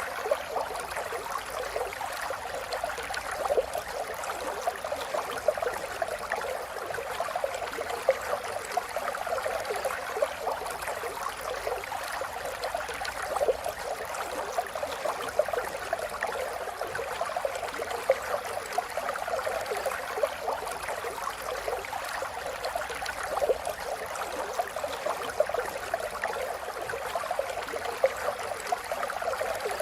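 River water flowing and gurgling steadily, a continuous wash with many small splashes and bubbling flickers.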